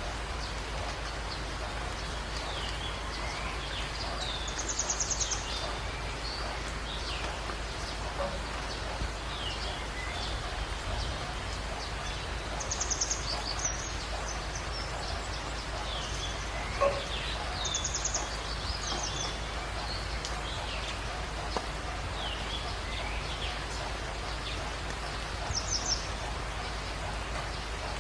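Birds calling in a dawn chorus: many short sweeping chirps, and a high, rapid pulsed trill that comes back every few seconds. All of it sits over a steady background hiss.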